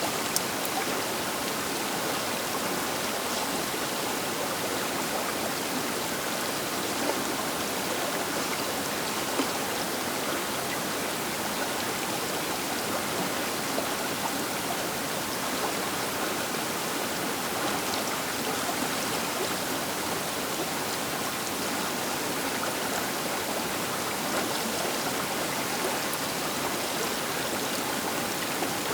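River water rushing steadily along the bank, an even unbroken wash, with a few brief ticks in the first ten seconds.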